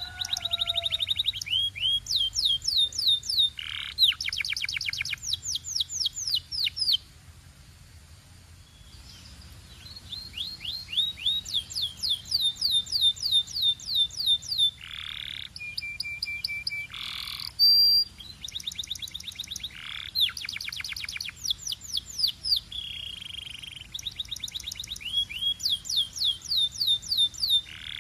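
Canary singing in rapid trills of quickly repeated notes, with swooping notes in between. The song pauses for a few seconds about a quarter of the way in.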